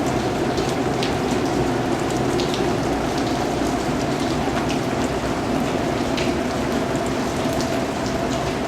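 Steady rain falling, with single nearby drops striking at irregular intervals over an even wash of rain noise.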